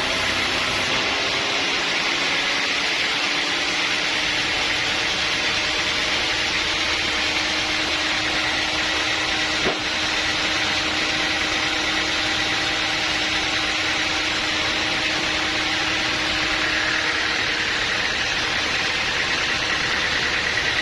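Sawmill machinery running steadily, a motor hum under a constant hiss. There is one short knock about halfway through.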